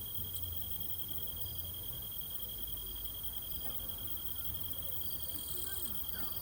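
Insects trilling in one steady, unbroken high tone, like crickets on a summer night, over a low steady rumble.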